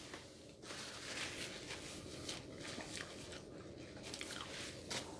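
Quiet chewing and eating noises close to the microphone, with a few small clicks.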